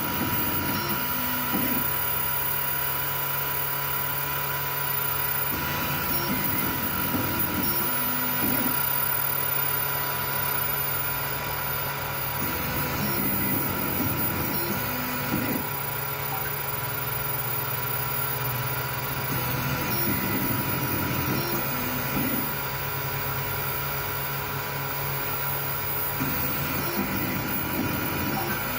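FDM 3D printer running near the end of a print: a steady fan hum, with the stepper motors whirring in stretches of a few seconds whose pitch steps up and down as the head and bed move.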